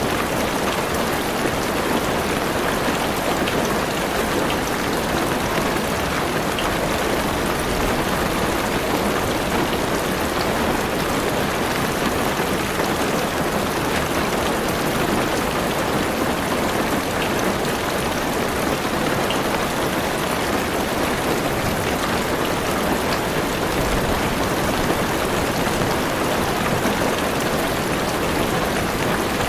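Heavy rain falling steadily on a car's roof and windows: a constant dense hiss of drops with an occasional single drop ticking out.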